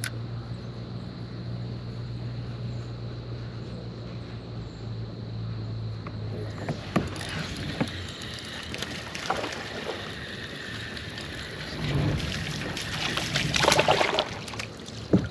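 Sounds of a small bass being landed from a kayak: a steady low hum for the first six seconds or so, then scattered clicks, knocks and water splashing, loudest a little before the end.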